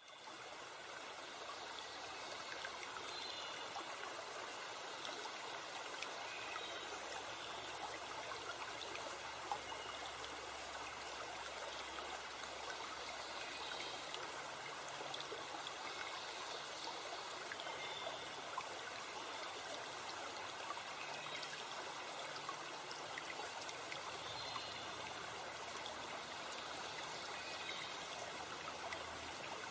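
Steady rush of a forest stream and waterfall, fading in at the start, with faint short bird calls every few seconds.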